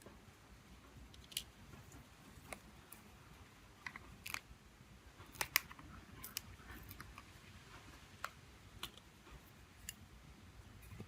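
Faint, irregular clicks and small snaps of hand tools and parts being handled on a Samsung Galaxy J2 Prime smartphone under repair, the loudest a double click about halfway through.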